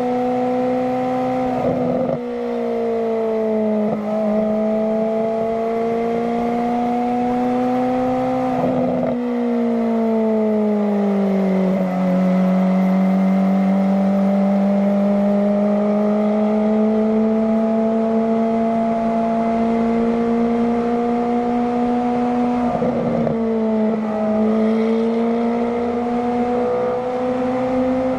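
Ferrari F430's 4.3-litre V8 through a Kreissieg F1 Sound valvetronic exhaust, a high howling note under moderate acceleration. The pitch climbs slowly and drops at each of several gear changes.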